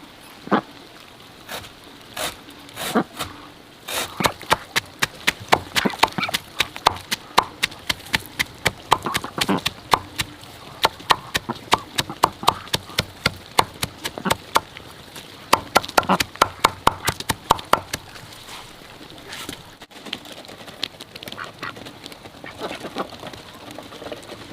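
Ducks quacking, with a dense run of quick sharp clicks and taps, several a second, from about four seconds in until near eighteen seconds.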